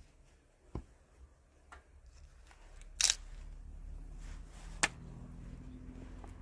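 Sharp knocks: a light one about a second in, a loud one about three seconds in and another near five seconds. A low steady hum comes in from about midway.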